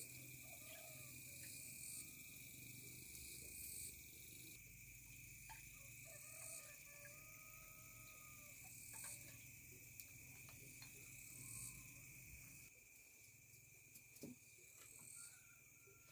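Faint outdoor insect chorus: a steady high drone, with a rising high-pitched call repeating about every two seconds and faint short chirps beneath. A low rumble stops about three-quarters of the way through.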